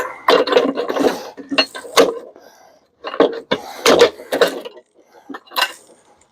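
Irregular clanking and rattling of metal parts being handled and pulled apart while an appliance is stripped for scrap, in several separate knocks with short pauses between.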